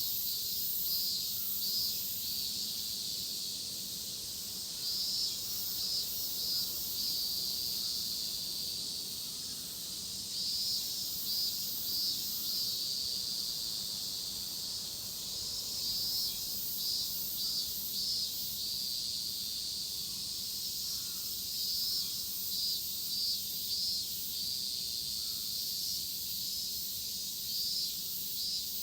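Chorus of cicadas droning steadily at a high pitch, with bouts of rapid pulsing that swell up every few seconds.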